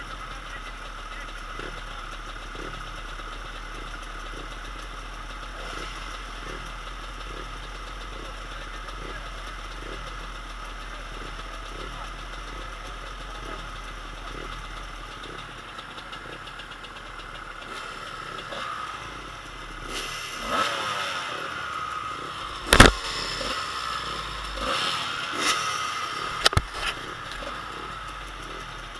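Motocross dirt bikes running on the track, a steady engine drone that gets louder and busier in the last third. A few sharp knocks come through, the loudest about two-thirds of the way in and another shortly after.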